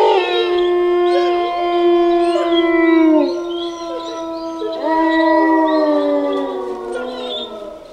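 Wolves howling in chorus: a long held howl that drops in pitch as it ends, then a second long howl about five seconds in, with shorter, higher howls from other wolves over them.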